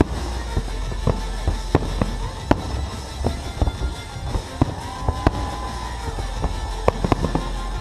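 Aerial fireworks bursting: a run of sharp cracks and bangs at irregular intervals over a steady low rumble.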